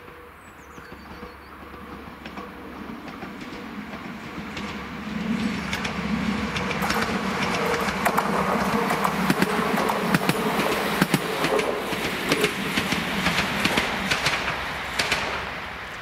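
Diesel passenger train approaching and running past, its rumble and engine hum building steadily and loudest from about five seconds in. Sharp wheel clicks come over the rail joints through the middle and end of the pass, and the sound falls away near the end.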